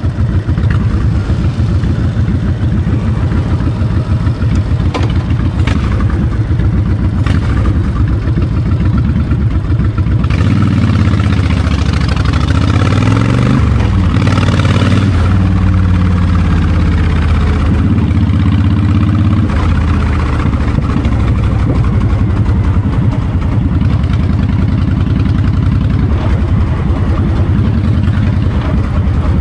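Honda VTX 1300's V-twin running on the move, with wind noise buffeting the microphone. The engine runs steadily, then its pitch rises and falls several times from about ten to twenty seconds in.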